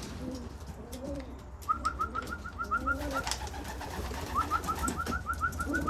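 Racing pigeons cooing in the loft, repeated low calls. Two runs of quick, rising high-pitched peeps, about seven a second, each lasting over a second, come about two seconds in and again near the end.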